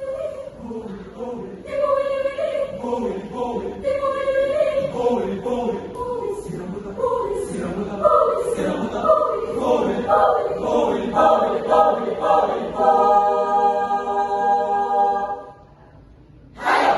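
High school choir singing, ending a phrase on a long held chord. The chord breaks off about fifteen seconds in, followed by a short pause and a brief loud burst just before the end.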